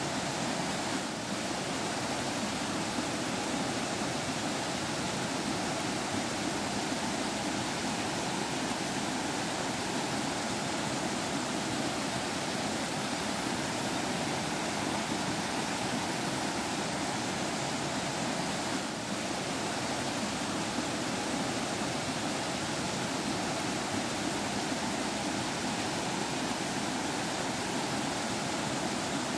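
Forest stream flowing and babbling over rocks, a steady rush of water.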